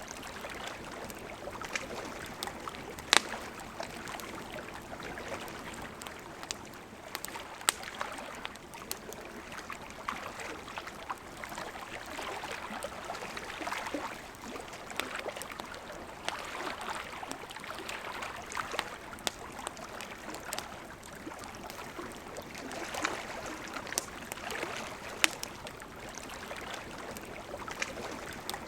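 A river flowing steadily, with a wood campfire crackling over it in scattered sharp clicks and a few louder pops.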